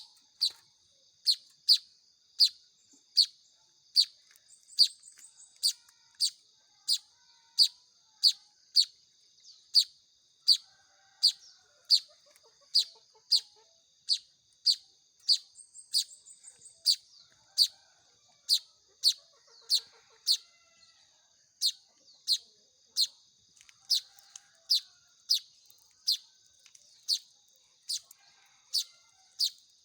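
Manyar (weaver) chicks making sharp, high begging chirps, about one every 0.7 seconds, over a steady high-pitched drone.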